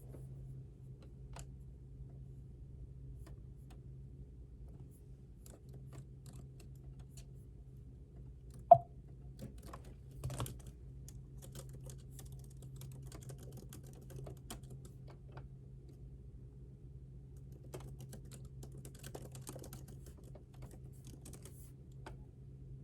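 Typing on a computer keyboard: scattered keystrokes, coming in quicker runs near the end, over a steady low hum. About nine seconds in there is one sharp knock, the loudest sound, with a brief ring.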